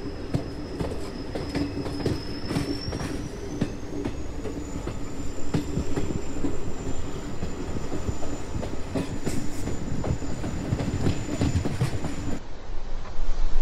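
Train running on the rails: a steady rumble with a low hum, frequent clicks of the wheels over rail joints, and a high thin wheel whine that rises in pitch a few seconds in and then holds. About a second before the end it cuts abruptly to a steady hiss.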